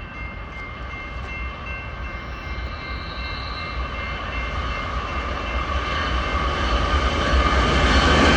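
Freight train approaching, its low rumble growing steadily louder, with steady high tones held over it throughout.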